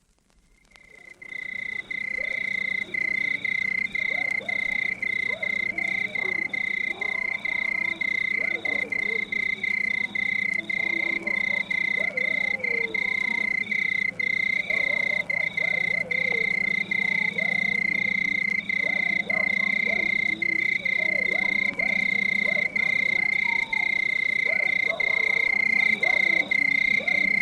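Night chorus of frogs croaking under a steady high trill that is broken by regular short gaps, fading in about a second in.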